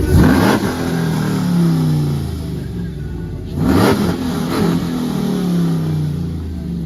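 A vehicle's engine revved hard twice, about three and a half seconds apart, the pitch falling away after each rev.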